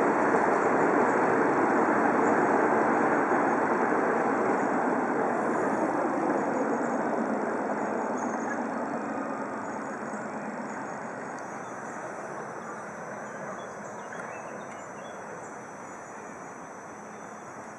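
Miniature park-railway train running past on its track, its rumble loudest at first and then fading steadily as it moves away.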